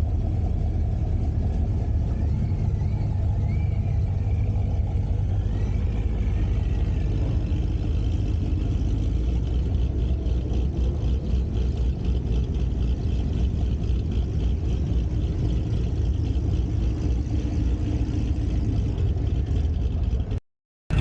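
Car engine and road noise while cruising at a steady speed: a constant low rumble with no revving. It cuts out abruptly near the end.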